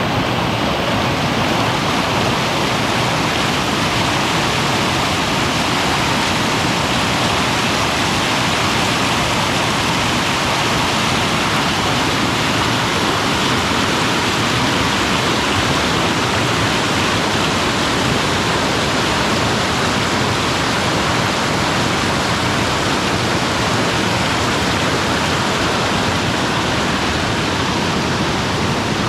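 Waterfall and swift creek rushing close by, a loud, steady roar of water that does not change.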